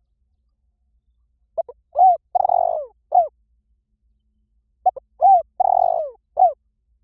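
Spotted dove cooing its decoy call twice. Each phrase is a few short coos around one longer, drawn-out coo, with silent gaps between the phrases.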